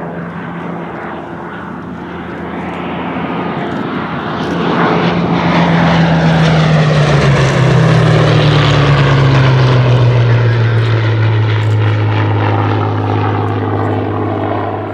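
Rolls-Royce Merlin V12 engine of a Hawker Hurricane fighter making a pass: the engine sound swells to its loudest about six seconds in, its pitch dropping as it goes by, then slowly fades.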